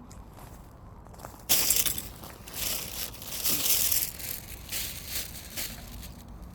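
Dry firewood crunching and crackling in a run of loud bursts, starting suddenly about a second and a half in and easing off near the end, over a steady low background.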